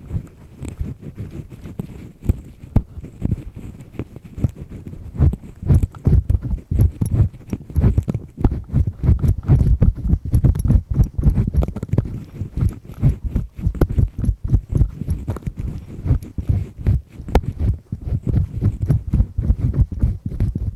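Double-disc ear pick scraping firmly in an ear right at the microphone: a dense, irregular run of low rubbing and scratching strokes with sharp clicks.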